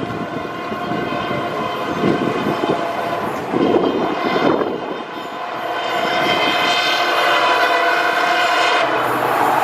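EMD WDP-4-series diesel locomotive approaching at high speed and sounding its high-pitched horn, a steady multi-tone note with a few louder surges; the train noise grows louder in the second half as it draws near.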